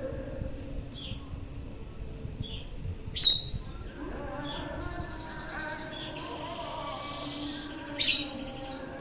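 Lovebirds chirping, with two short, loud, shrill calls, one about three seconds in and one near the end.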